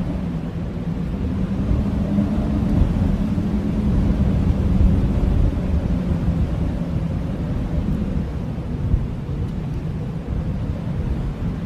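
Blizzard wind rumbling low and steady, swelling and easing slightly, with a faint low drone in it.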